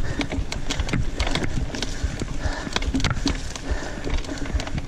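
Mountain bike clattering over a rough trail: irregular knocks and rattles from the bike, with tyre and wind noise underneath.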